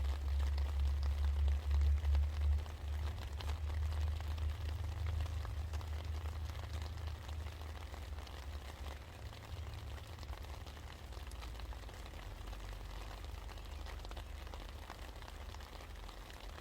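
Steady rain falling, a fine patter of many small drops, over a low rumble that is loudest for the first couple of seconds and then eases off.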